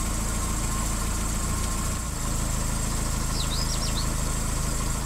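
An engine or motor running steadily at idle: an even, low hum with no change in speed.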